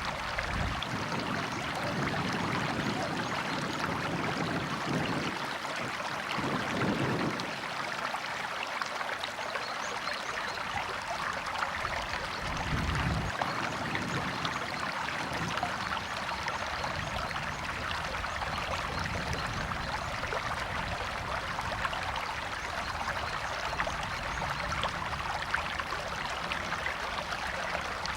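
River water flowing and splashing over rocks, a steady rush with occasional deeper surges.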